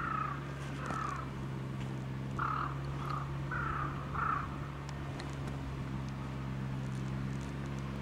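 A bird giving a series of about six short, harsh calls over four seconds or so, then falling silent, over a steady low hum.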